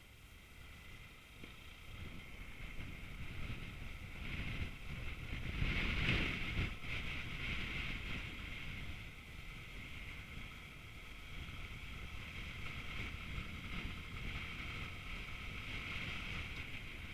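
Vehicle on the move: steady road and wind noise buffeting the microphone, swelling about six seconds in and then settling.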